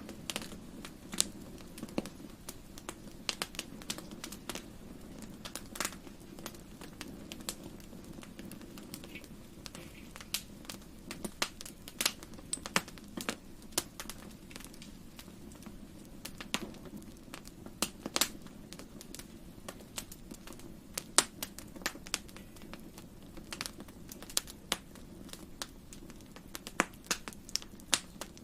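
Wood fire crackling in a fireplace: irregular sharp snaps and pops, several a second at times, over a steady low rush of the flames.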